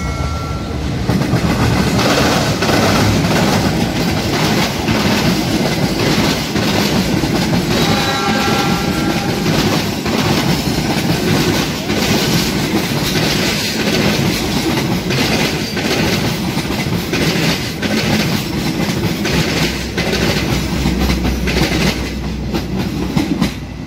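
Argo Parahyangan passenger train passing close by, a diesel locomotive and then a long rake of stainless-steel coaches. The wheels clatter rhythmically over the rail joints in a loud, steady rush, with a brief high tone about eight seconds in. The noise falls away just before the end as the last coach goes by.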